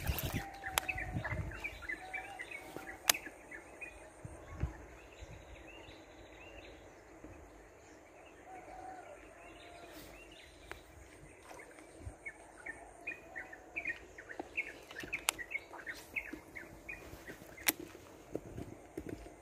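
Small birds chirping in quick runs of short calls, busiest near the start and again about two-thirds of the way through, with a few sharp clicks and a faint steady low hum underneath.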